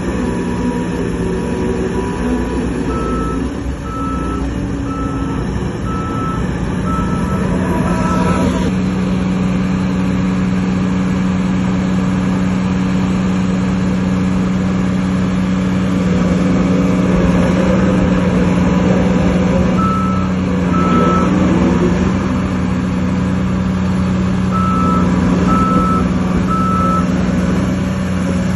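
Heavy diesel earthmoving machinery running steadily under load, with a reversing alarm beeping about once a second in short runs: a run of about seven beeps, then two near the middle and three more toward the end.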